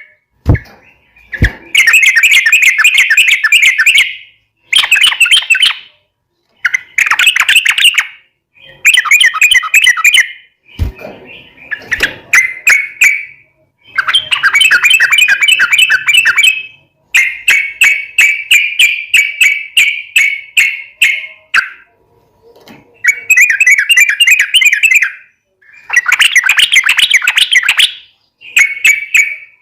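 Yellow-vented bulbul (trucukan) singing long, rapid runs of bubbly chattering notes. The song comes in a string of bursts of one to three seconds, with short pauses between them.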